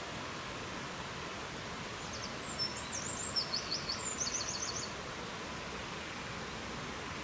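A steady rushing background noise, with a small songbird singing one high, rapid phrase of chips and short trills starting about two seconds in and lasting a couple of seconds.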